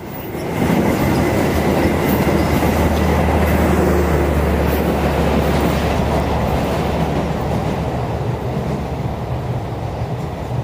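A passenger train hauled by a diesel-electric locomotive passing over a railway bridge. It gets loud suddenly about half a second in, with a steady low engine drone that is strongest over the first few seconds and then eases, under continuous wheel-on-rail rumble and clatter.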